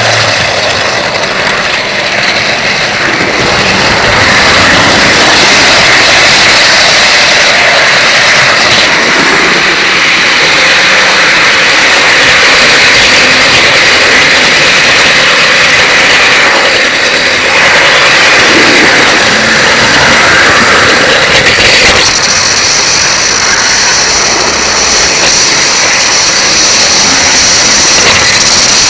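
Model train running on the track close by: a steady electric-motor whine mixed with wheel and rail noise, the tone changing about two-thirds of the way through to a higher, steadier whine.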